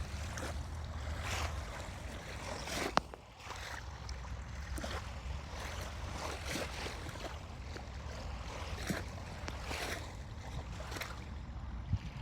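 Small lake waves lapping on the beach, a wash of noise about once a second, over a low rumble of wind on the microphone. A single sharp click about three seconds in.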